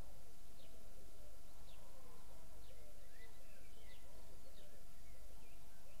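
Wild birds calling: a quick run of short, low, arching notes, about two or three a second, with scattered higher chirps above them, over a steady hiss.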